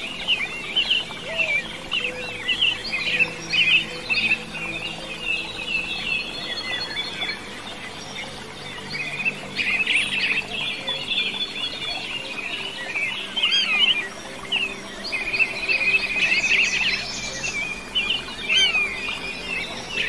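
Wild songbird song: a dense run of quick, overlapping chirps and warbled notes that goes on throughout.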